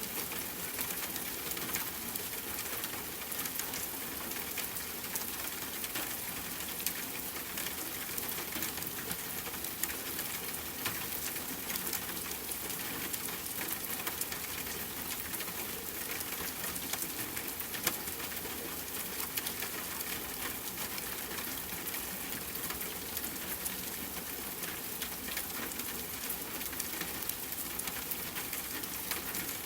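Steady rain falling on a tent, mixed with many small crackles from a campfire.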